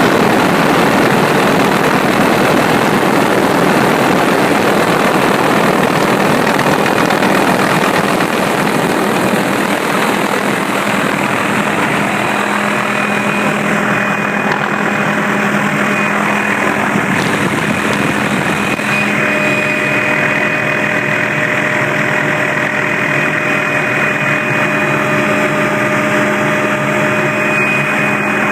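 Aircraft engine running steadily in flight, a loud even drone. About ten seconds in it eases a little and a steady hum with a few held tones comes through.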